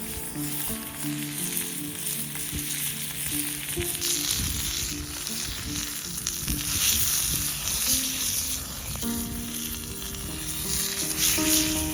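Food frying in a pan, a steady sizzle that grows louder about four seconds in, over soft background music.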